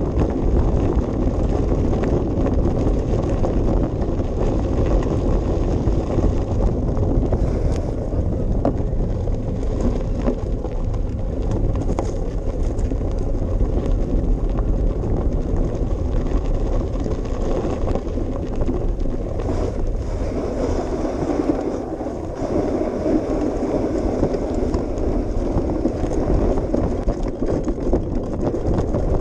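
Bicycle riding along a path, its tyres and frame giving a steady rumble dotted with small rattles and clicks, with wind buffeting the microphone.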